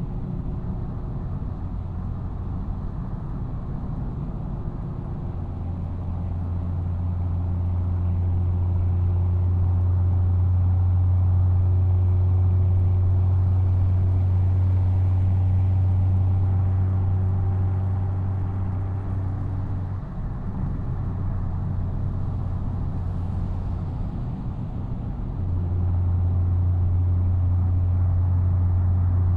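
BMW M240i's B58 turbocharged 3.0-litre inline-six exhaust droning at a fairly steady cruise. It grows louder a few seconds in, eases off briefly about two-thirds of the way through, then picks up again near the end.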